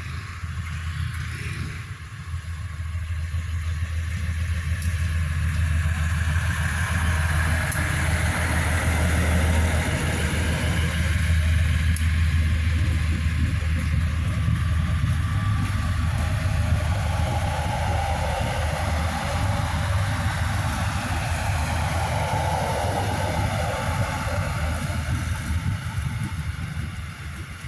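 Multi-car KAI passenger railcar train passing slowly at close range: a steady low engine drone with wheel and rail noise. It grows louder over the first few seconds as the cars come level, holds, and eases off near the end.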